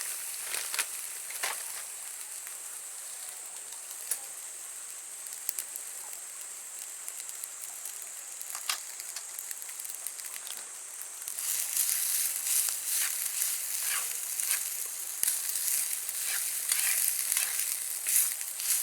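Food sizzling over a campfire: a steady high hiss with scattered sharp pops and crackles, growing louder and busier about eleven seconds in.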